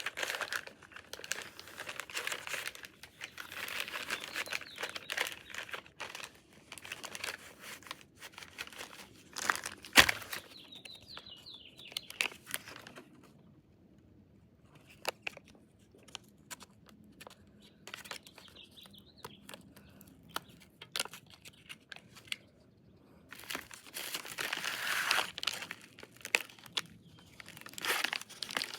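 MRE plastic packaging crinkling and rustling in bursts as it is handled, with one sharp click about a third of the way in and a quieter stretch in the middle.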